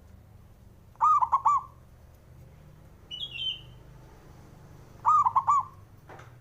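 Zebra dove (perkutut) cooing twice, about four seconds apart, each call a quick run of three rounded notes. A brief, higher chirp comes between them.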